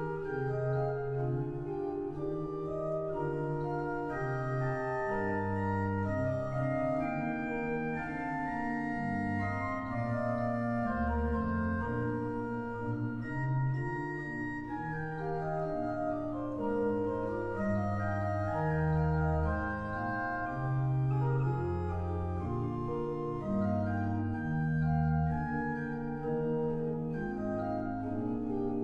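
Church pipe organ playing a many-voiced piece: sustained chords over a moving bass line, each note held steadily.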